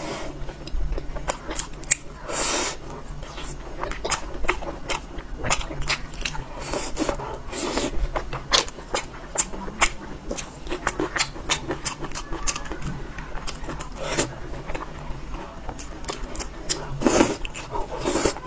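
Close-miked chewing and mouth sounds of someone eating soft, fatty braised pork belly: irregular wet clicks and smacks, with a few louder ones.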